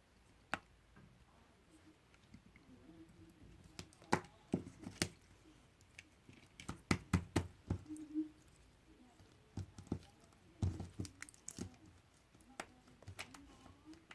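Slime being handled and pressed by hand, giving irregular sharp clicks and pops in clusters, the busiest about four, seven and eleven seconds in.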